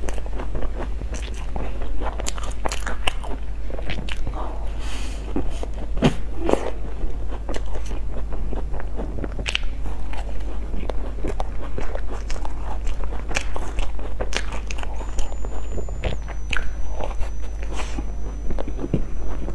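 Close-miked biting and chewing of crumb-topped cream puffs: many irregular crisp crunches and clicks from the crunchy topping.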